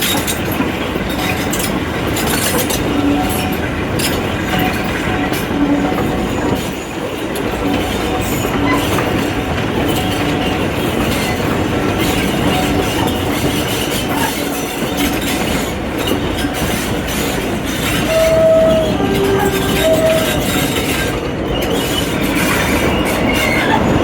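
A train running along the line, with steady rail noise throughout and a few short tones about three-quarters of the way through.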